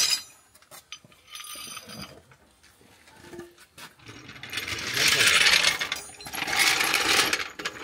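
A floor jack being wheeled over a concrete workshop floor: metal rattling and scraping in two bursts of about a second each in the second half, after a few faint clinks.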